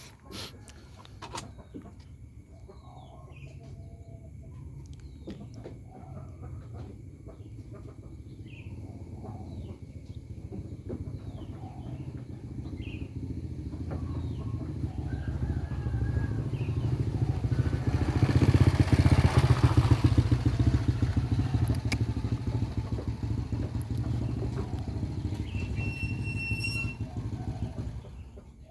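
A motor vehicle's engine getting steadily louder, loudest about two-thirds of the way through, then fading somewhat, like a vehicle passing by. Short bird chirps sound over it in the first half.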